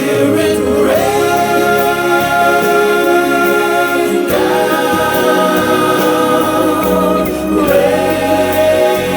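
Several voices singing a slow gospel worship song together, holding long chords that change about every three to four seconds.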